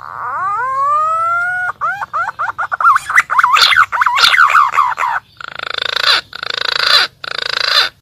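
Green pigeon (punai) song played as a lure call: a long whistle rising in pitch, then a fast run of wavering whistled notes, ending in three harsh, raspy bursts.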